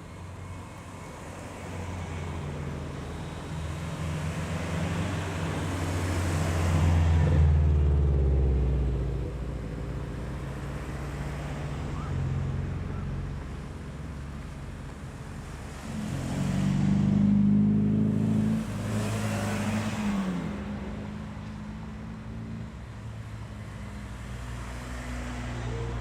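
Modified Japanese cars driving past one after another, engines rising and falling as each goes by. The two loudest passes come about seven and seventeen seconds in.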